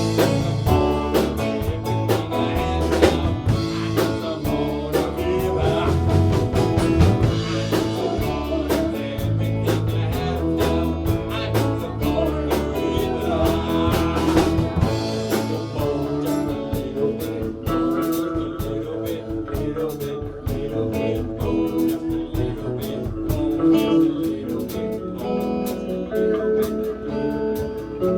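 A band playing a blues number without vocals: guitar over bass and a drum kit, with a steady beat.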